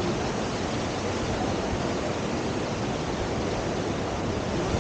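Steady rush of river water pouring through a standing surf wave, an even noise with no distinct splashes or breaks.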